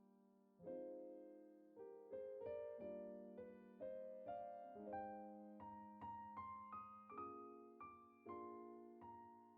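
Soft solo piano background music: single notes and chords struck one after another and left to fade, the melody climbing step by step to its highest notes around the middle and then settling back down.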